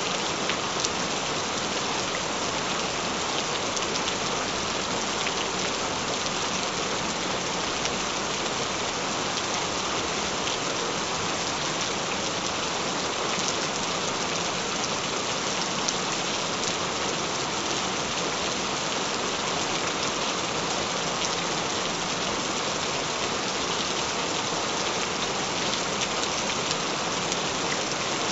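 Gentle rain falling steadily, an even wash of sound flecked with the faint ticks of single drops, with no thunder.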